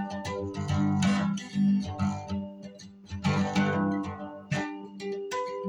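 Acoustic guitar strummed in a slow pattern of chords, each strum ringing on.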